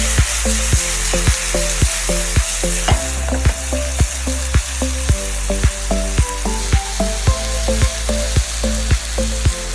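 Food frying in hot oil, a steady sizzle, under background music with a steady beat and bass.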